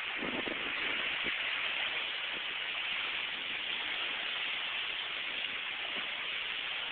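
Steady rushing hiss of strong wind and sea on a seafront, without the heavy microphone buffeting of a moment before.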